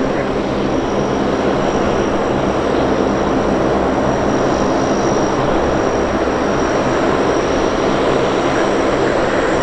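Lockheed P-3B Orion's four Allison T56 turboprop engines running steadily: a loud, even propeller and engine drone with a few low steady tones and a faint high whine.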